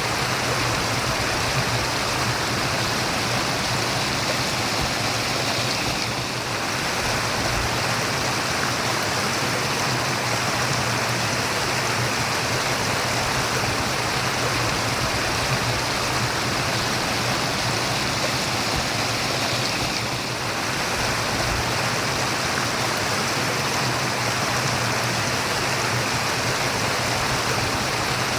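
Running water murmuring steadily, with two brief slight dips in loudness.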